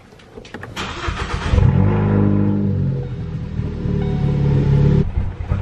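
Ford Focus ST's turbocharged 2.0 L EcoBoost four-cylinder started with its fuel pump fuse pulled: the starter cranks briefly, the engine catches about a second and a half in and runs for a few seconds on the fuel left in the lines, then cuts out abruptly as it runs out of gas. This stall is how the fuel-system pressure is relieved.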